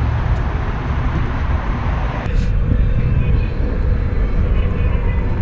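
Heavy wind rumble on the microphone while riding an electric rental scooter, with the scooter's road noise underneath and a faint steady motor tone. The sound changes abruptly about two seconds in.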